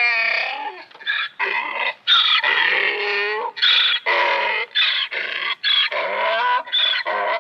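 Donkey braying: a long run of repeated hee-haw calls, alternating high wheezing notes with lower honking ones.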